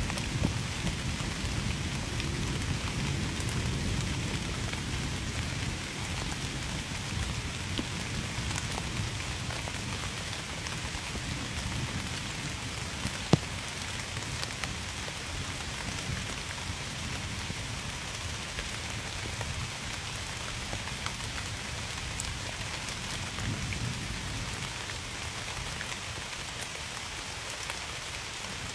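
Steady heavy rain falling and pattering on surfaces, with a low rumble of thunder that eases after the first several seconds. A single sharp drop or tick stands out about halfway through.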